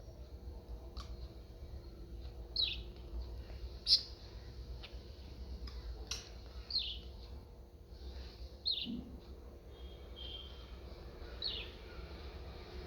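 Pet budgerigar giving short, high chirps that fall in pitch, one every two or three seconds, with a few sharp clicks in between.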